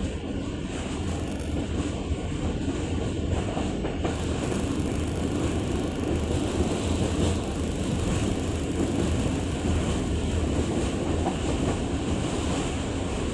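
Passenger train running along the track: a steady rumble of the cars and wheels on the rails, growing a little louder and brighter about four seconds in.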